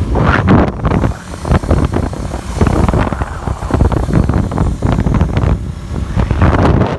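Heavy wind buffeting on the microphone of a moving motorcycle: a loud, uneven rumble.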